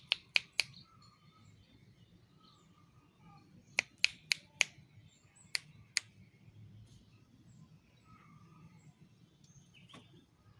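Sharp, dry clicks in short quick runs: four in the first half-second, a run of five about four seconds in, two more soon after and a single one near the end. No dove cooing in between.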